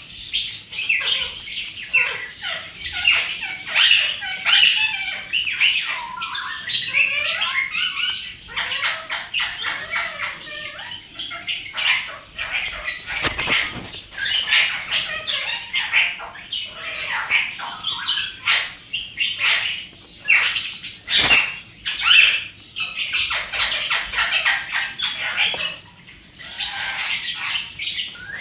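Pet parrot calling with short squawks and chirps over a dense run of sharp clicks and crackles.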